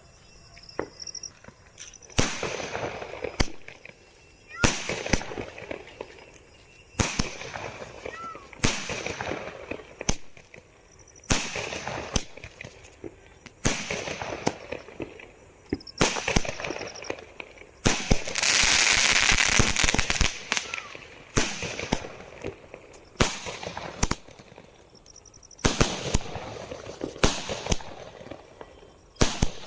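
Fireworks going off in a series: about a dozen sharp bangs, each trailing into crackling, roughly every two seconds. About eighteen seconds in comes a two-second stretch of dense, continuous crackle.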